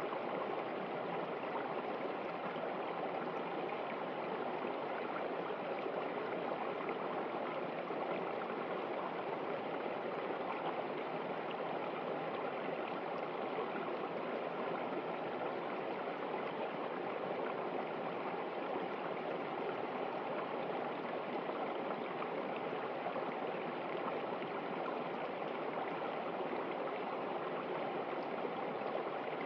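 River water running and rushing over rocks, a steady even noise with no breaks.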